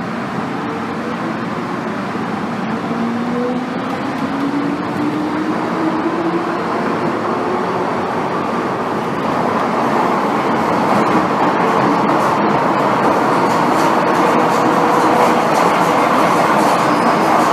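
Interior of an MTR M-Train metro car accelerating. The traction motors give a whine that rises in pitch over the first few seconds, and the wheel and running noise grows steadily louder as the train gathers speed.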